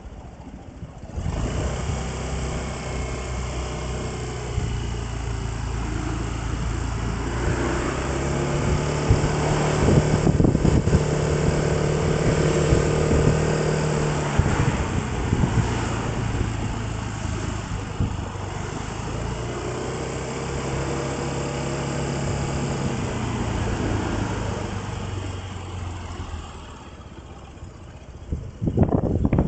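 Vehicle engine running as it drives, its pitch rising as it speeds up twice, then easing off; a short loud noise near the end.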